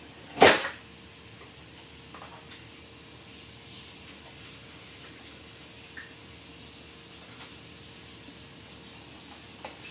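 A single sharp clack about half a second in, then a steady hiss in the kitchen.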